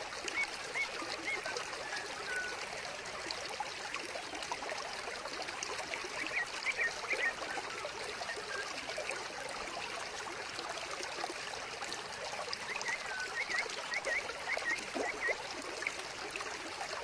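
Small vivarium waterfall trickling and splashing steadily, with a few clusters of short high chirps over it.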